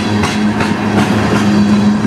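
Freight train tank cars rolling past on the rails, with steady wheel-on-rail noise and light clicks, and a steady low hum underneath.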